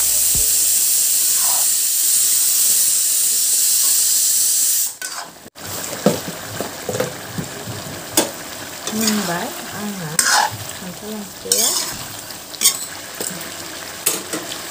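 Jackfruit curry sizzling in a metal kadai over a gas flame: a steady loud hiss for the first five seconds. After a break, a spatula stirs and scrapes the pan with scattered clinks over a softer sizzle.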